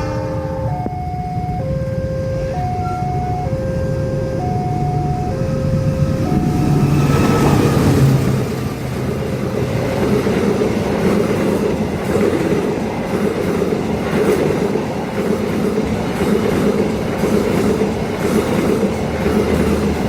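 Level-crossing warning alarm sounding two alternating tones, then a long train arrives about seven seconds in: the locomotive's diesel engine swells past, followed by the steady rumble and regular clatter of the carriages' wheels over the rails.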